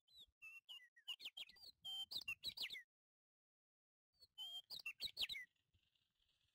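A bird chirping in two bursts of quick, high twittering calls, the second starting about four seconds in.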